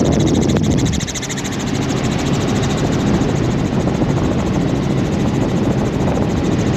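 Helicopter in flight heard from on board: a steady, loud drone of turbine and rotor with a fast, even pulsing from the blades.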